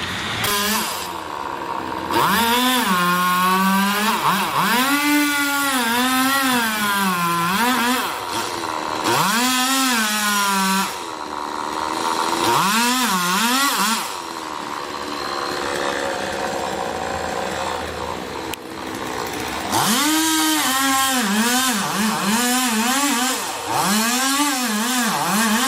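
Chainsaw engine revved up and let back down again and again, in several spells of revving with a steadier stretch in between, and quick repeated revs near the end.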